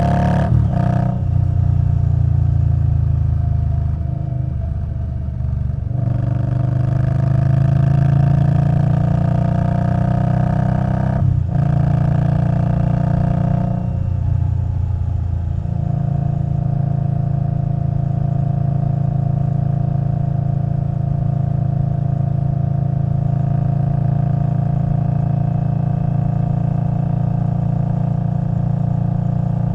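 Indian Scout Bobber Twenty's liquid-cooled V-twin through a Vance & Hines Twin Slash exhaust, pulling up through the gears with rising revs and short breaks at each shift. From about halfway it settles into a steady cruise.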